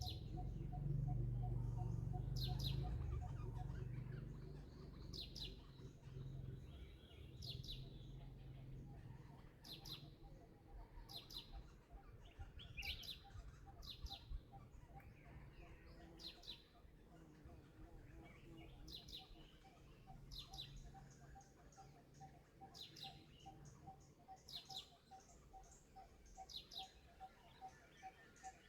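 Short, high chirps, each a quick falling squeak, repeating about every second. Under them runs a faint, rapidly pulsing steady tone, and a low rumble in the first few seconds.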